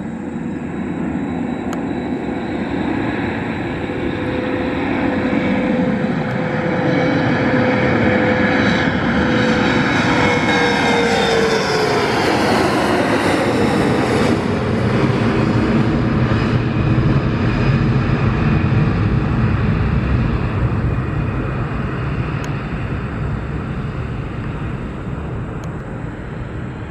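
Bombardier CRJ1000 jet airliner's turbofan engines at takeoff power as the plane passes by. The engine whine holds steady, then drops in pitch as it goes past about twelve seconds in, and the rumble builds and then slowly fades.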